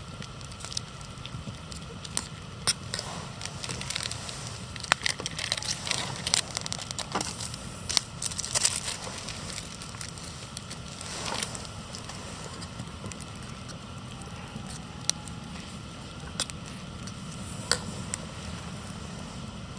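Wood campfire crackling, with irregular sharp pops that come thickest in the first half and turn to a few single snaps later.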